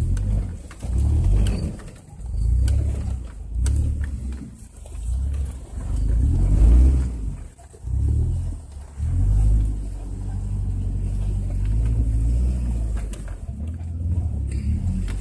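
Off-road vehicle engine revving in short repeated surges about a second apart, then running steadily under load for the last several seconds.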